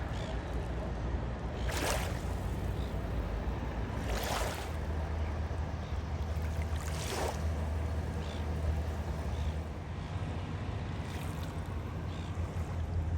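Steady low road-and-engine drone of a car being driven, with a brief whoosh every two to three seconds, like vehicles passing.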